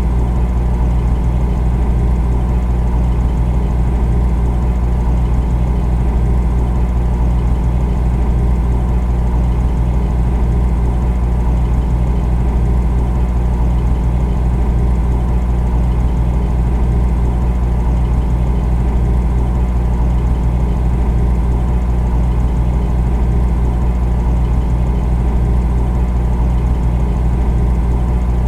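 Refrigerator compressor running with a steady low hum and a fast, fine flutter in the hum.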